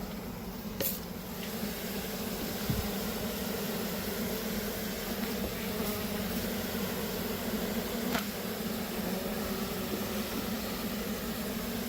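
A large mass of disturbed honeybees buzzing steadily as they are driven out of an opened wall hive, with a couple of light clicks.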